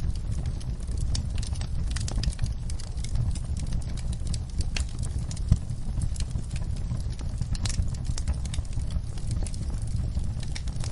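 Wood fire burning in a fireplace, crackling with frequent irregular pops and snaps over a steady low rumble.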